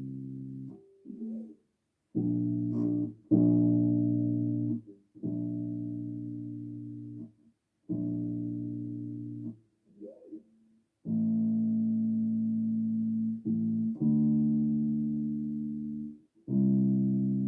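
Bass guitar played slowly: about eight notes plucked one after another, each left to ring and fade for one to two seconds, with short gaps between.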